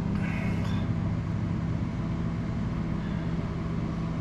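A steady low motor hum with several even tones, running throughout.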